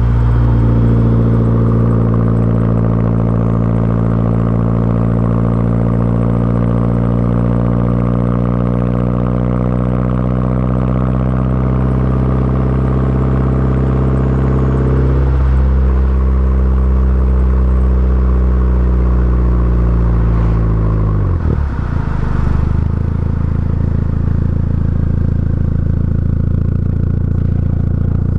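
Turbocharged 1.8-litre four-cylinder engine of an Audi A4 running through a catless downpipe and 3-inch cat-back exhaust, with a deep, steady drone. Engine speed eases slowly down, changes about halfway through, then falls away about three-quarters of the way in to a low, steady idle-like run.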